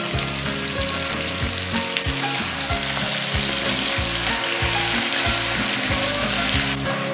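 Chopped onions, celery and bacon sizzling in a frying pan as a wooden spoon stirs them, the hiss growing stronger a couple of seconds in and cutting off suddenly near the end. Background music plays underneath.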